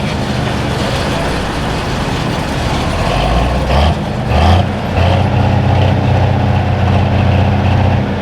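Pulling tractor engine running loud and steady, with a brief change in tone about four seconds in before settling back to a steady note.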